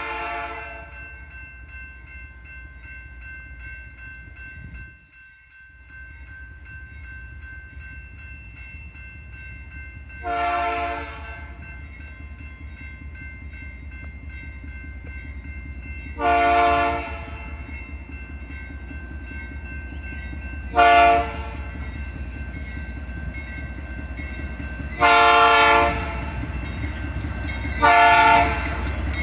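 GE Dash 9 diesel locomotive sounding its Nathan P3 three-chime air horn in a series of separate blasts, mostly about a second long with one short toot, coming closer together and louder near the end. Under the horn, the locomotive's diesel engine rumbles steadily.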